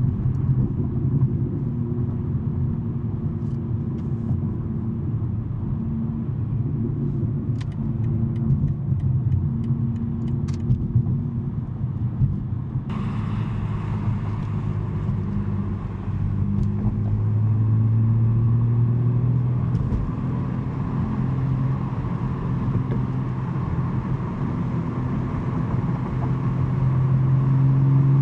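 2023 BMW M3 G80's twin-turbo inline-six with a non-resonated J-pipe exhaust, cruising with a steady low drone under a hiss of road and wind noise that gets louder about halfway through. Near the end the engine note climbs and grows louder as the car picks up speed.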